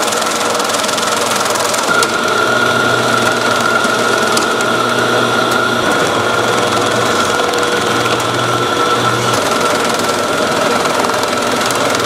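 Food-processing machinery running steadily: a continuous high whine over a dense mechanical rattle, with a low hum that comes and goes through the middle.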